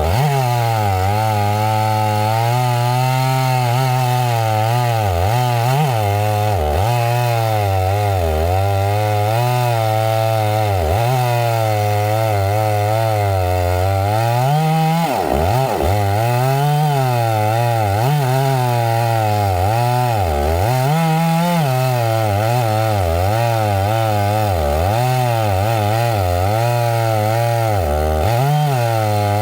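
Two-stroke chainsaw cutting into pine wood under load, its engine pitch repeatedly dipping and recovering as the chain bites and frees.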